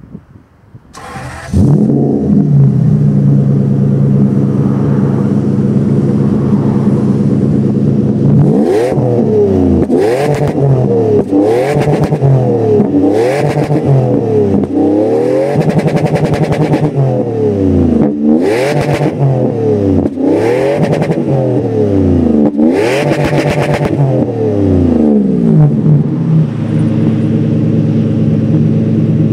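Toyota Century engine starting up about a second and a half in and idling through a one-off exhaust with only a middle silencer after the catalytic converter, then revved repeatedly in short blips that rise and fall, settling back to idle before a last rev near the end.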